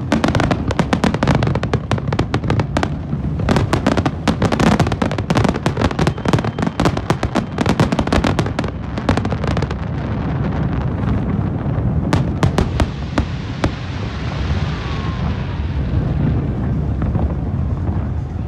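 Fireworks display: a dense barrage of rapid cracks and bangs for about ten seconds, then thinning to scattered bangs over a fading crackle.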